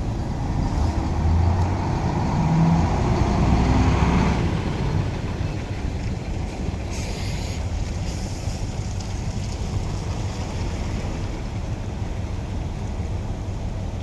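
Container truck's diesel engine running, louder for the first few seconds as it pulls in, then settling to a steady rumble, with two short hisses about seven and eight seconds in.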